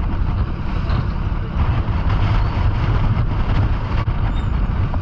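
Wind buffeting the microphone: a steady, loud, low rumble. A faint, short seagull cry comes near the end.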